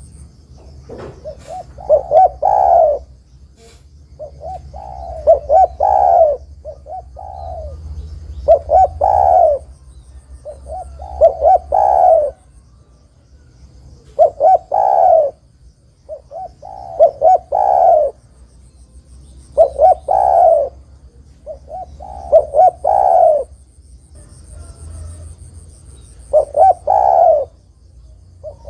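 Spotted dove (tekukur) singing, repeating its cooing phrase every two to three seconds: a few short coos and then a longer, louder final coo. Faint high chirps sound in the background.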